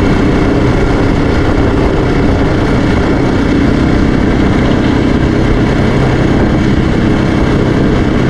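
Yamaha Raptor 700R ATV's single-cylinder engine running at a steady speed while riding, under a loud, even rushing noise.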